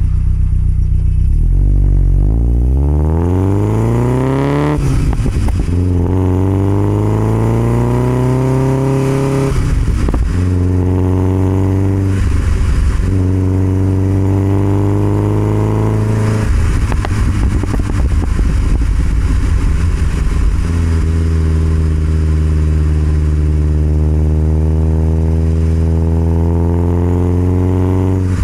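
1969 Alfa Romeo Spider 1750's twin-cam four-cylinder engine heard through its Alfaholics exhaust, accelerating up through the gears. The pitch rises in each gear and drops at each of several shifts, then climbs slowly in a high gear near the end.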